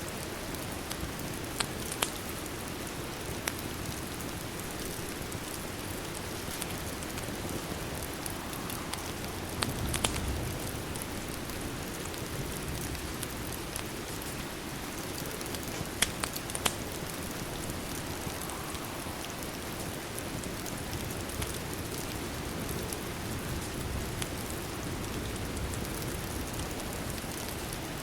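Steady rain falling, mixed with a fireplace crackling, which gives a handful of sharp pops scattered over the steady hiss.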